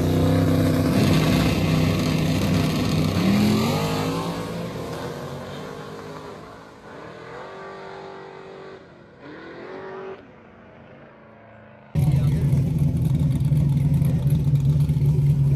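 Race car engine revving hard and accelerating away, its pitch climbing, then fading as it moves off. After an abrupt cut, a loud engine runs steadily close by.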